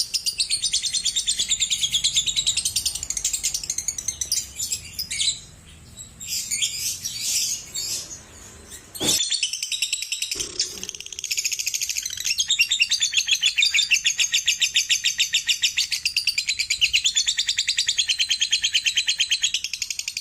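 Lovebird singing its 'ngekek' chatter: a very fast, high-pitched rattling trill, broken by pauses in the middle, then a long unbroken run through the second half. A single sharp click about nine seconds in.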